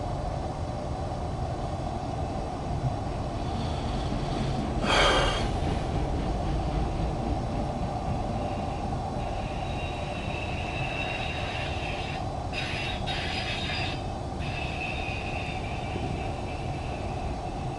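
Freight train rolling past with a steady rumble, a short louder surge about five seconds in, and high thin tones from the wheels that come and go through the second half.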